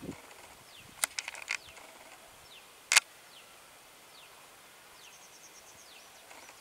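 Quiet outdoor ambience with a bird repeating short, high, falling chirps every second or so. A few sharp clicks come about a second in, and a single loud sharp click near three seconds is the loudest sound. A brief fast high ticking trill comes about five seconds in.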